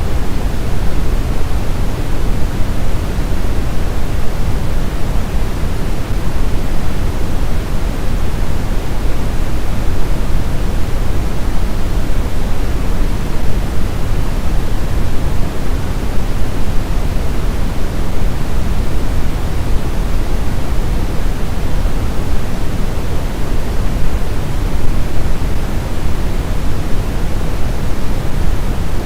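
Steady synthetic sleep noise: an even, unchanging rush with no tones or clicks, deeper than pure white noise, heaviest in the low end and thinning toward the treble.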